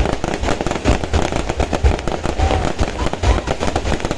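Fireworks going off in a dense barrage: rapid, irregular cracks and pops over deep booms.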